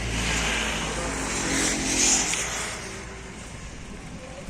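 New Holland tractor's diesel engine running as the tractor drives by in gear, getting louder to about two seconds in and then fading.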